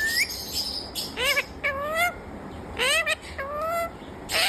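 Indian ringneck parakeet calling: two pairs of short calls, each a quick rising note followed by a longer, level note, then a harsh screech near the end.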